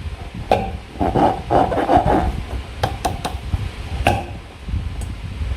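Hands working slime and rubber balloons: sticky squishing and rubbing, busiest in the first half, with a scattering of sharp clicks.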